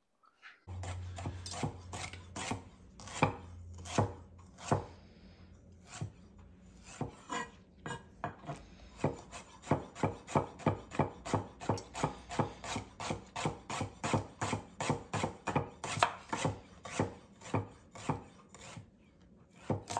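Chef's knife slicing fresh ginger on a wooden cutting board: a long run of knocks of the blade on the board, sparse at first, then a steady rhythm of about three a second.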